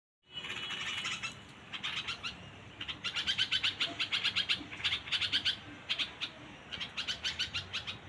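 Small songbirds chirping in quick runs of short, high notes, several a second, with brief pauses between the runs.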